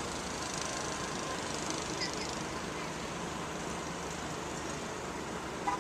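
Steady outdoor hum of distant traffic, with a few faint chirps about two seconds in and a short tone near the end.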